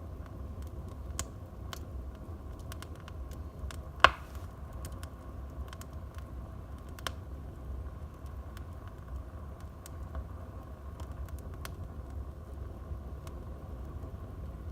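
Wood fire burning in a fireplace, crackling with scattered small clicks over a steady low rumble, with one loud pop about four seconds in.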